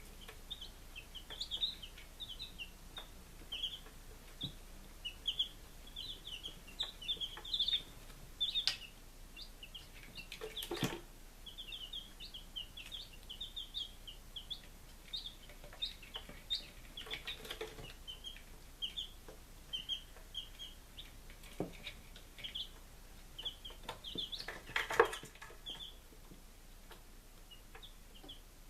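Five-day-old chicks peeping steadily, a dense run of short high cheeps overlapping one another. A few louder scuffs or knocks cut in three times, the loudest near the end.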